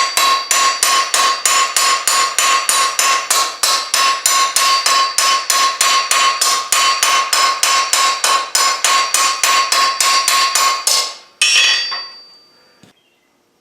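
Small ball-peen hammer peening over a cold rivet on a forged mild-steel hook, about four quick blows a second, each with a metallic ring. The hammering stops about 11 seconds in, followed by one last ringing blow that dies away.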